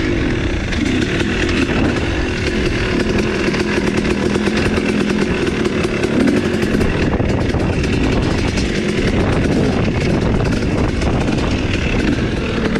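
Dirt bike engine running under throttle while being ridden, its note rising and falling.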